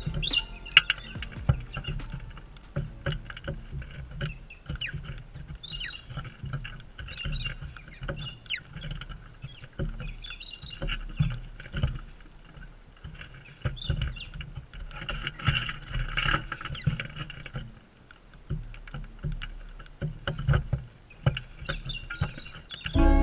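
Parrots feeding on seed right beside the camera: irregular taps, knocks and scrapes of beaks and feet on the feeder, with short chirps between them.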